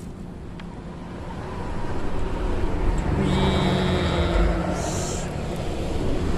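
Motor vehicle crossing the bridge overhead: a low rumble that swells about a second and a half in and holds, with a brief high whine in the middle.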